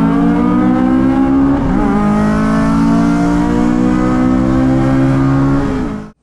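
Car engine under hard acceleration, its pitch climbing slowly, with a brief dip and recovery about two seconds in; it cuts off suddenly near the end.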